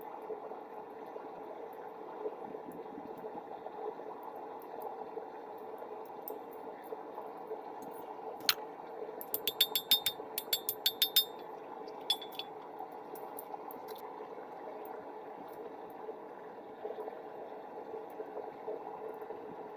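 Propane forge burner running with a steady hiss and hum. A single click about eight seconds in, then a quick run of light metallic clinks lasting about two seconds.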